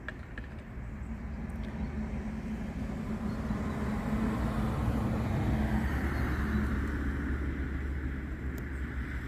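Low, steady rumble of a passing vehicle, growing louder to a peak about six seconds in and then easing, with a few faint clicks.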